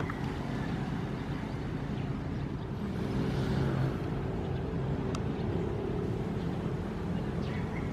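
Ocean waves washing over a constant low rumble, one wave swelling louder about three seconds in.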